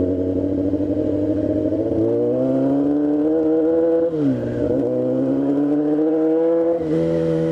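Sport motorcycle engine accelerating under load, its pitch climbing steadily, dropping briefly about four seconds in at an upshift and climbing again.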